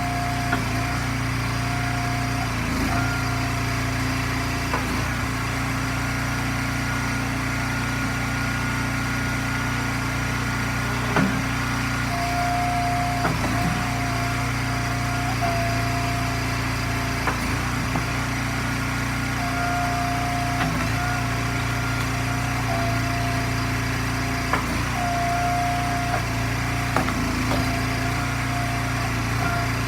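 Eastonmade hydraulic log splitter's small gas engine running steadily, with a higher whine that comes and goes in stretches of one to several seconds as the splitter works, and scattered sharp knocks and cracks as ash rounds are split.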